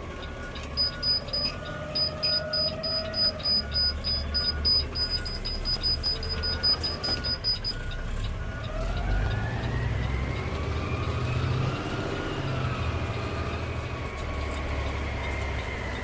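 Low, steady running of a garbage truck's engine with repeating electronic beeps, a rapid high beep and a slower one, until about 8 s in. Then an emergency vehicle's siren takes over, wailing slowly up and down.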